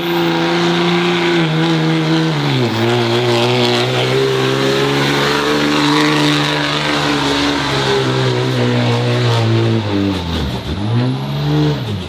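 Diesel pickup truck's engine running hard under load while pulling a sled, without nitrous. It holds high revs, drops in pitch once about two and a half seconds in, then holds steady. Near the end the revs fall sharply, climb again and drop off.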